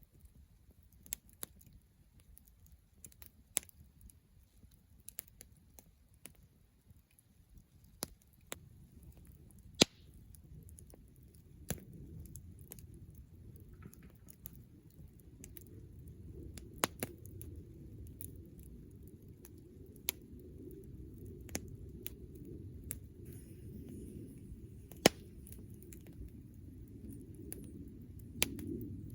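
Campfire crackling, with sharp irregular pops and snaps over a low rumble that grows louder about a third of the way in.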